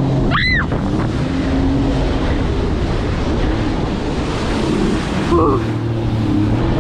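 Strong wind rushing over the microphone with a low, steady motor hum underneath, from a ride in the open. A short high sound rises and falls about half a second in.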